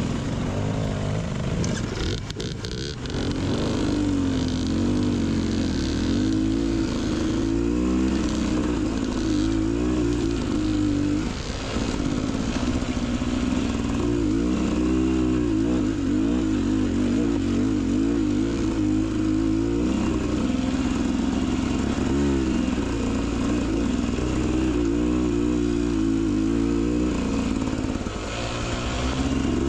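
Beta Xtrainer 300 two-stroke dirt bike engine running under the rider, its revs rising and falling with the throttle as it works along the trail, easing off briefly a few times.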